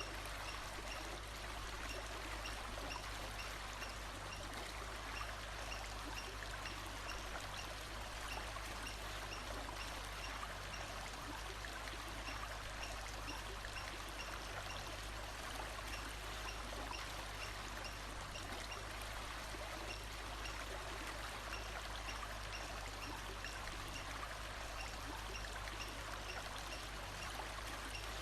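Water flowing in a stream, an even, steady rush with no change, with a faint high chirp repeating a couple of times a second above it.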